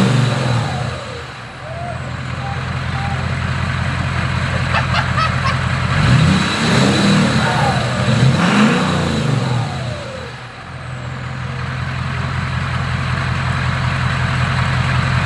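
Ford Powerstroke diesel V8 in an F-250 idling steadily. It is revved twice, about six and eight and a half seconds in, the pitch rising and falling back each time.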